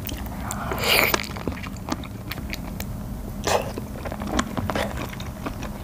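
Close-miked chewing of a tough piece of whole octopus coated in spicy sauce: a run of wet mouth clicks and smacks that takes long chewing, with louder bites about a second in and again about three and a half seconds in.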